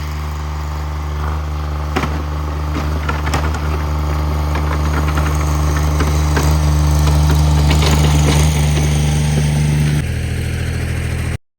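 Cub Cadet 1782 garden tractor's engine running steadily, with a few metallic clanks over it. About ten seconds in the engine note changes, and the sound cuts off suddenly just before the end.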